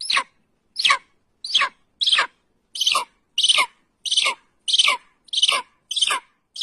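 A bird calling over and over: about eleven short calls, each falling in pitch, spaced a little over half a second apart with silence between.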